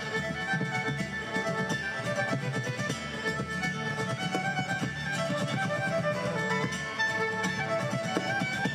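Live traditional instrumental music: a fiddle playing a quick melody of many short notes over a steady rhythmic accompaniment.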